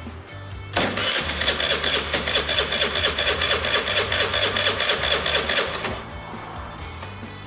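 Suzuki Address V50 scooter's fuel-injected 50cc four-stroke engine being cranked by its electric starter for about five seconds, a fast even churning that stops without the engine ever firing. The engine will not start; a fouled spark plug is later found to be the cause.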